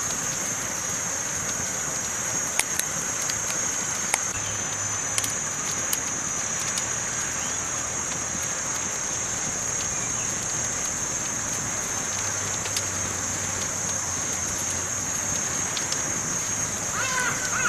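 Campfire burning with a steady hiss and scattered sharp pops and crackles. A steady high-pitched drone runs underneath, and a short warbling call sounds near the end.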